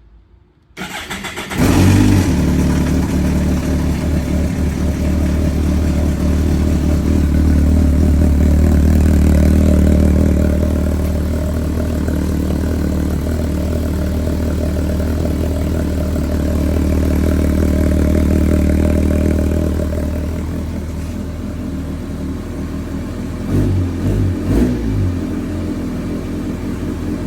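Kawasaki Concours 14's inline-four engine cranked by the electric starter and catching about a second and a half in, then idling loudly, the idle swelling and easing back twice. Two short throttle blips near the end.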